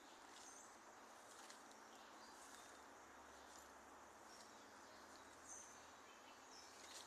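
Faint, scattered short high chirps of small birds over a steady low hiss, the clearest about five and a half seconds in.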